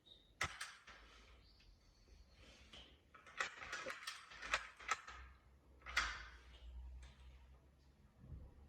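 Toy packaging being handled: several sharp clicks and bursts of plastic-and-cardboard rustling, with a low rumble in the second half.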